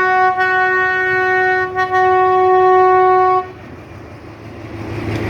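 Train horn sounding one long blast on a single note, broken briefly twice and cutting off about three and a half seconds in. Afterwards a low rumble from the train rises.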